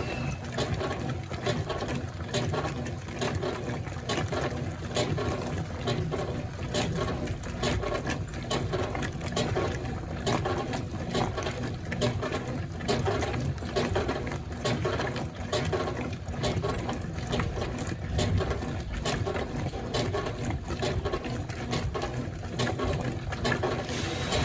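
Consul Facilite 11.5 kg top-loading washing machine agitating a load of rags: the agitator motor running and water sloshing in the tub, with dense irregular clicks and knocks.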